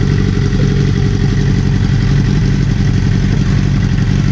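Straight-piped motorcycle engine, its slip-on exhaust removed, idling steadily with an even, rapid pulsing.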